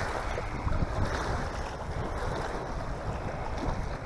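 Wind blowing hard across the microphone, a steady low rumble with gusty noise, and small waves on the lake lapping.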